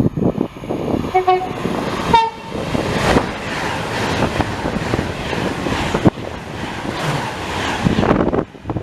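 Train horn sounding two short notes, the second higher than the first, about a second in. The train then passes close by with a loud, steady rush of rail noise, broken by a few sharp clicks, which drops away near the end.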